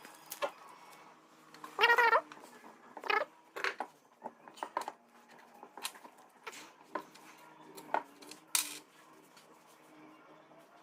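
Small metal parts and hand tools clicking and tapping irregularly while new valves are fitted into a motorcycle cylinder head. There is a brief wavering pitched sound about two seconds in and a short scrape near the end, over a faint steady hum.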